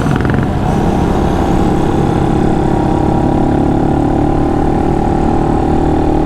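Honda Monkey 125's single-cylinder four-stroke engine running at a steady, loud pace while riding on the track, its pitch holding level.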